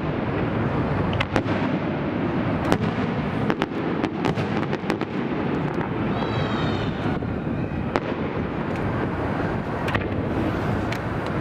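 Aerial fireworks display: a continuous rumble and crackle of bursting shells, with many sharp bangs at irregular moments.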